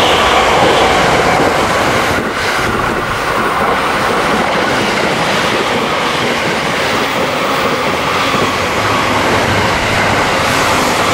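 A JR West limited express electric train passing through a station at high speed: a loud, steady rush of wheel-on-rail and wind noise, with a thin whine that fades in the first second.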